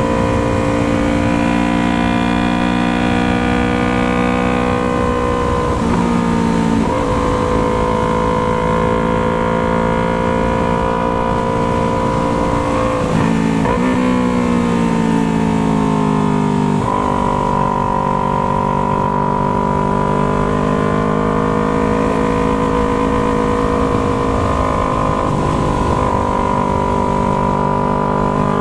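Yamaha MT-03's parallel-twin engine through an aftermarket Jeskap exhaust, running under way at a mostly steady pitch. The pitch shifts and glides around six seconds in, again around thirteen seconds, and jumps back to a steady note around seventeen seconds, as the rider changes gear or speed.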